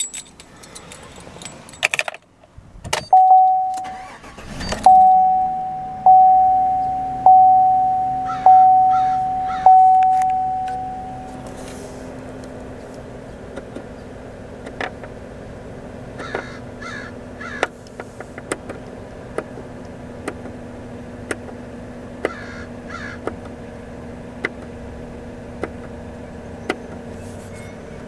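Keys jangling, then a 2014 Chevrolet Silverado 1500's engine cranks and starts about five seconds in while a dashboard warning chime dings about once a second. The chime stops after about ten seconds and the engine settles into a steady idle, with light regular clicks about once a second.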